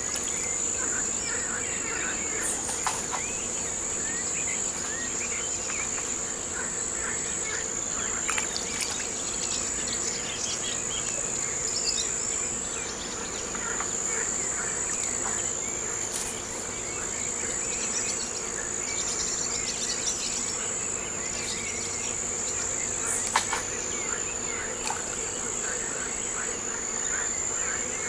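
Steady high-pitched insect chorus, such as crickets, trilling without a break, with scattered bird chirps in the background and a few brief clicks.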